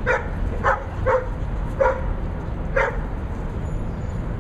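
A dog giving five short yips over about three seconds while playing over a ball with another dog, over a steady low rumble.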